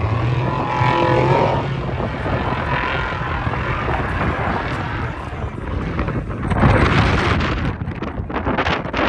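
Motor vehicle engine running, with wind buffeting the microphone; the sound swells louder about seven seconds in.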